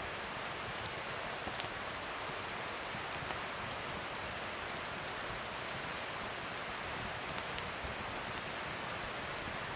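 Wood fire burning with a steady crackling hiss and a few small pops.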